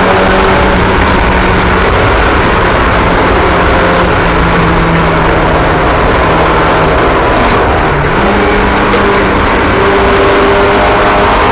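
Several small racing engines running at high revs, their pitches holding and shifting slightly as the cars circulate.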